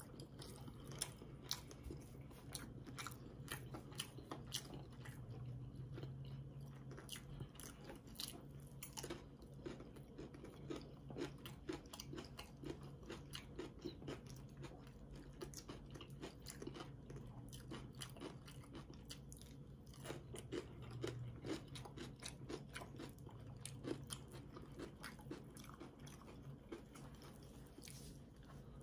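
A person chewing a sandwich: a long stream of small wet clicks and crunches from the mouth, over a faint steady low hum.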